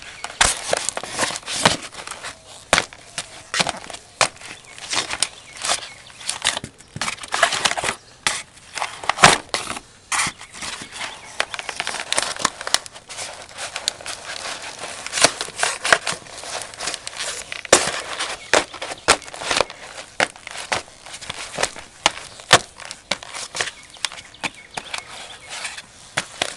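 Cardboard pizza boxes crunching and crackling as Danner Rainforest boots stomp on and crush them, a run of irregular sharp cracks and crumpling.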